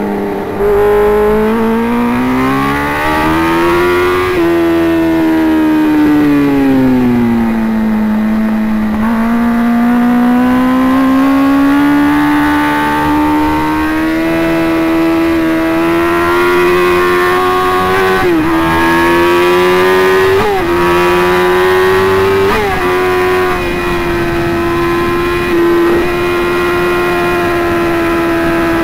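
Sport motorcycle's engine at speed, recorded from the rider's helmet camera. The engine note climbs, falls away as the throttle is eased, then climbs steadily again, broken by three quick upshifts about two-thirds of the way through.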